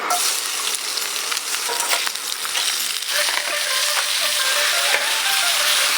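Food sizzling in hot oil or on a hot surface: a steady hiss with scattered crackles.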